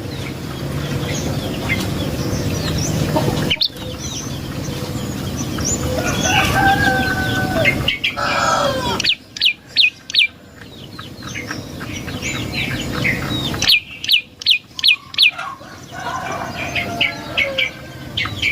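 Prenjak lumut (a small tailorbird/prinia-type songbird) calling: series of sharp, rapidly repeated high notes, loudest in two fast runs about nine and fourteen seconds in, with some longer calls around six to eight seconds. A steady low hum runs underneath, and the sound breaks off abruptly a few times where clips are joined.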